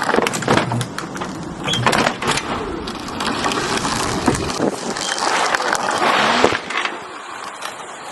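Lawnmower running over a toy, with loud rattling, clattering and knocks as the toy is broken up.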